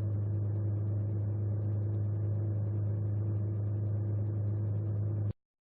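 A steady, even engine drone with a strong low hum, unchanging in pitch, that cuts off abruptly about five seconds in.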